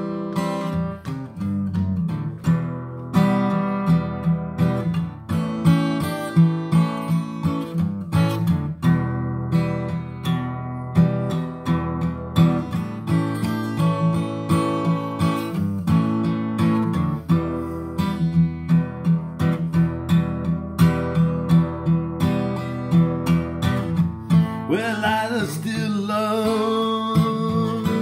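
Acoustic guitar playing a song's instrumental intro in a steady picked and strummed rhythm. Near the end a wavering held melody line, like a voice or lead instrument, comes in over it.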